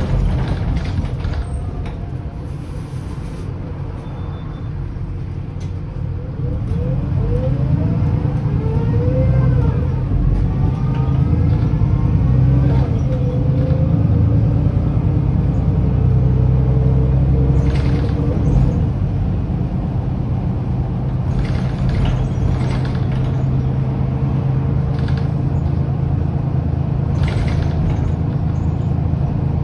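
Mercedes-Benz O530 Citaro city bus running under way: OM906hLA diesel drone with the whine of its ZF Ecomat automatic gearbox, which climbs in pitch several times as the bus accelerates and then holds steady. A few sharp clicks or knocks come in the second half.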